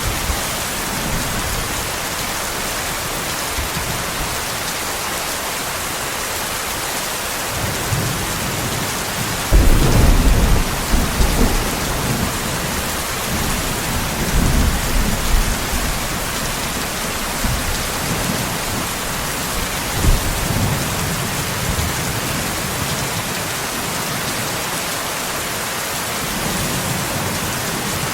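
Steady heavy rain hissing, with thunder rumbling underneath: a rolling peal about ten seconds in, then weaker rumbles a few seconds later and again about twenty seconds in.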